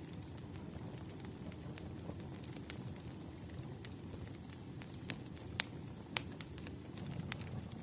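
Wood fire burning: a steady low rumble of flames with scattered sharp crackles and pops from the burning logs, two louder pops a little past halfway.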